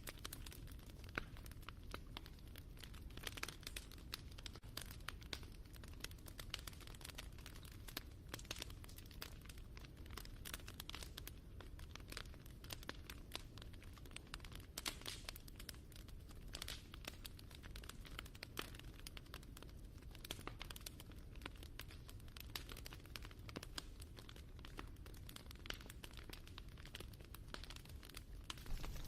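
Wood fire crackling: a steady low rumble of burning with frequent small, irregular pops and snaps throughout.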